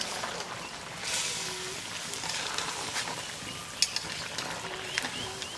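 Chicken and pumpkin curry sizzling in a pot while it is stirred, with a steady frying hiss that swells about a second in. A few sharp knocks of the utensil against the pot come near the end.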